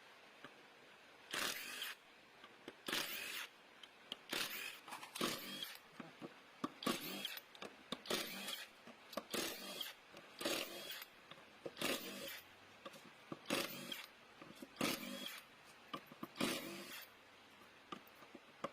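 Hand tools working on a Honda CB150R motorcycle engine being taken apart: a string of short, irregular metallic scraping and clicking bursts, about one a second, with brief quiet between.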